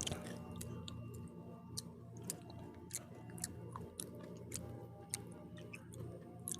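Close-up chewing of crunchy pizza, with irregular sharp crunching clicks over a low steady hum.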